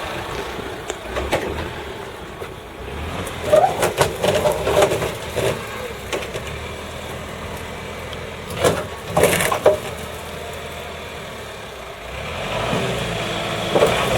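An engine running steadily, with two clusters of sharp knocks and clatters, about four seconds in and again about nine seconds in; the engine grows louder near the end.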